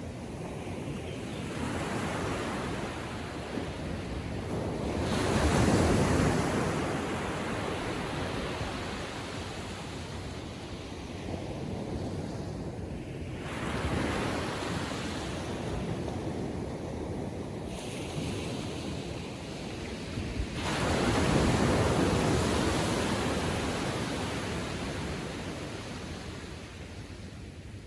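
Small waves on a calm sea breaking and washing up the beach in repeated swells, the loudest crashes about six seconds in and again about twenty-one seconds in.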